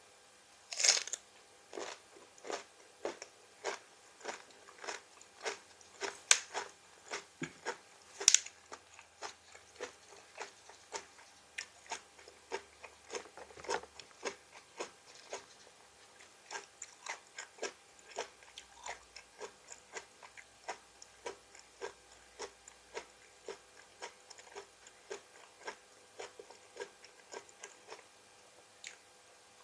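A person chewing crunchy raw vegetables close to the microphone: a steady run of sharp crunches, about two a second, with a few louder bites in the first eight seconds.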